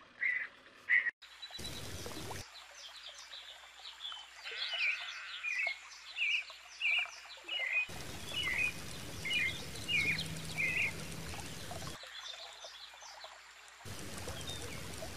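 Two short, loud calls at the very start. Then a bird chirps in a run of short repeated notes, about one or two a second. Stretches of steady hissing noise cut in and out abruptly.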